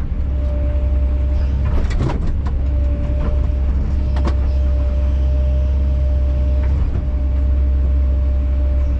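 Kobelco SK210 excavator's diesel engine running steadily, with a few short knocks about two and four seconds in.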